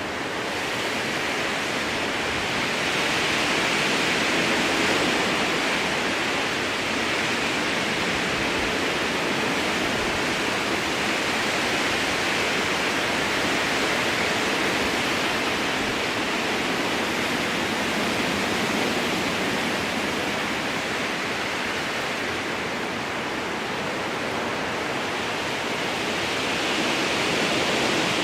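Strong wind blowing through a spruce forest: a continuous rushing hiss of the branches that swells gently a few seconds in and again near the end.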